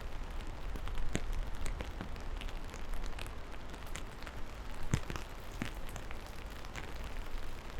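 Steady rain, with scattered individual drops striking sharply, over a low rumble.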